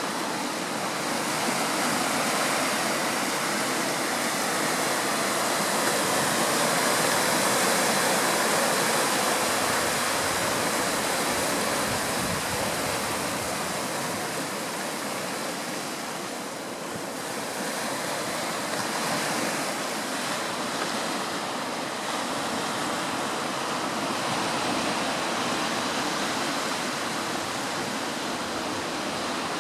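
Surf washing onto the shore of Port Royal Sound, a steady rushing wash that swells and eases slowly.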